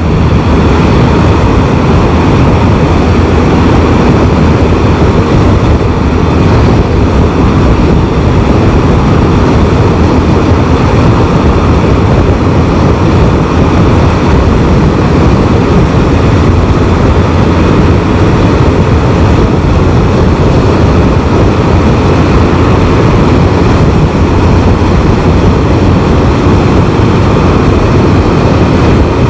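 Can-Am Spyder three-wheeled motorcycle riding at road speed: a loud, steady rush of wind and engine and road noise, heaviest in the low end.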